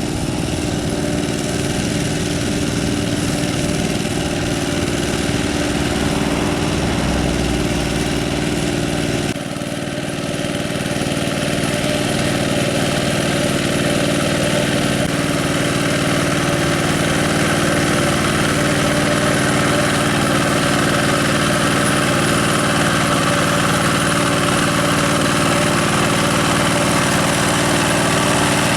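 Single-cylinder diesel engine of a two-wheel hand tractor running steadily, its sound changing abruptly about nine seconds in.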